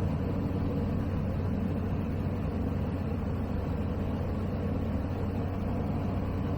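Engine and three-blade propeller of a Zenith CH 701 STOL light aircraft in flight, a Zonsen C100 flat-four (Rotax 912ULS clone), droning steadily.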